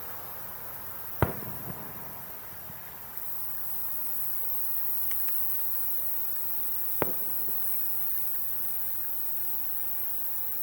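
Two firework shells bursting, sharp bangs about six seconds apart, the first with a brief echo, over a steady high chirring of insects.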